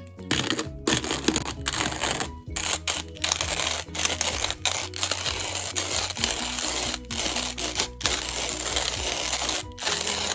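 Hand-cranked coffee grinder with a wooden body grinding whole coffee beans: a dense, gritty crunching that keeps going, broken by a few short pauses.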